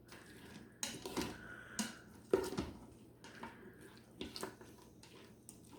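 A spoon stirring vegetables on sauté in an Instant Pot's metal inner pot, with irregular short scrapes and knocks against the pot, about seven of them.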